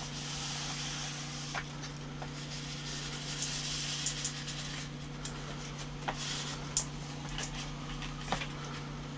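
Plastic squeegee card rubbing and sliding over a freshly applied screen protector film, with light plastic clicks and taps, over a steady low electrical hum.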